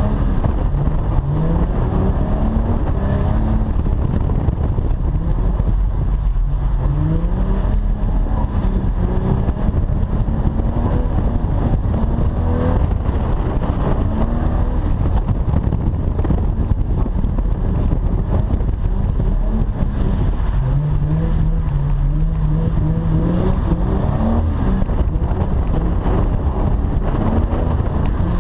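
Holden VY Commodore ute engine revving hard while drifting, its pitch climbing and falling again and again as the throttle is worked.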